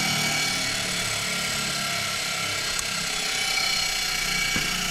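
Electric angle grinder running steadily with no load, powered from a homemade battery inverter, a steady high whine over a hiss.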